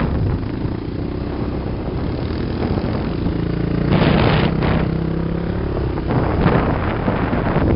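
Off-road dune vehicle's engine running under way on sand, its pitch rising and falling as the throttle changes, with wind gusting on the microphone about halfway through and again near the end.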